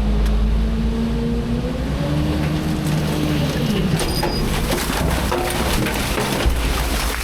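Front-load garbage truck engine running under load, its pitch rising and then falling over the first few seconds, followed by a stretch of clattering and banging.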